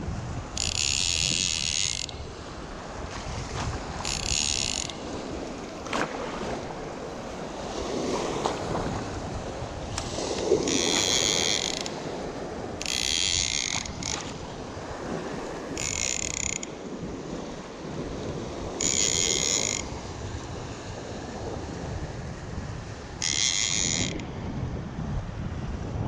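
Fishing reel ratcheting in about seven separate bursts of half a second to a second and a half each, over steady wind noise on the microphone.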